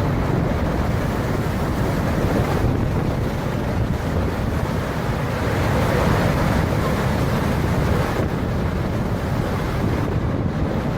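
Steady rushing wind noise buffeting the microphone, heaviest in the low end.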